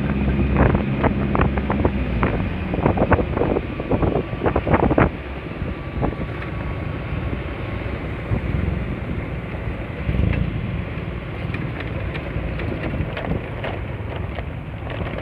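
Wind buffeting the microphone of a rider on a Honda Spacy scooter, with the scooter's single-cylinder engine and road noise underneath. The buffeting crackles heavily for the first five seconds, then eases.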